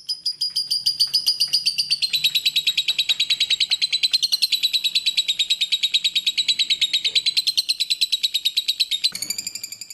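Lovebird giving one long, fast chattering trill of about ten notes a second, the long trill bird keepers call ngekek; the pitch dips slightly about two seconds in and shifts again near the end.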